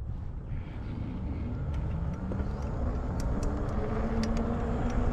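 Zota Zephyr e-bike's electric motor whining, its pitch slowly rising as the bike pulls away and picks up speed, over a growing wind rumble on the microphone. A few sharp ticks come in the second half.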